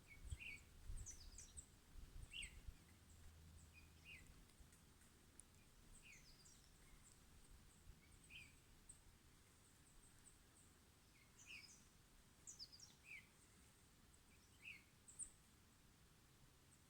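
Birds chirping faintly in a forest, short scattered calls with a few clustered bursts. A few low bumps come in the first few seconds.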